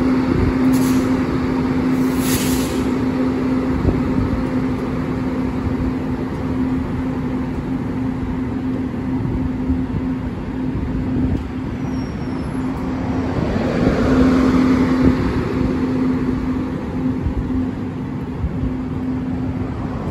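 Chu-Kuang Express train pulling out behind an E200-class electric locomotive, with its coaches rolling past and a rumble of wheels on the rails over a steady hum. Two short hisses come in the first few seconds, and the rumble swells a little past halfway as the coaches pass closest.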